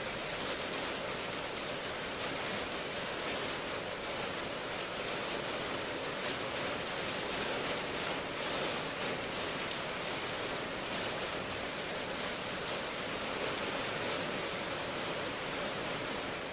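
Steady rain ambience: an even, unbroken hiss of rainfall with faint patter.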